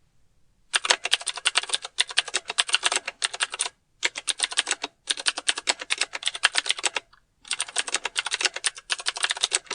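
Rapid keyboard-typing clicks in a series of bursts, each about one to two seconds long, separated by short silences, starting under a second in.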